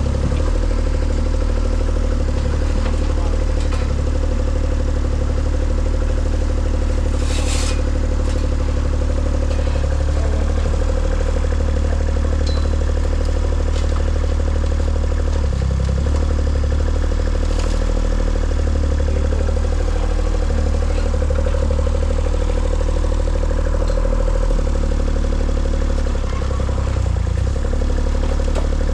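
An engine running steadily, with small shifts in its pitch, and a short burst of hiss about seven seconds in.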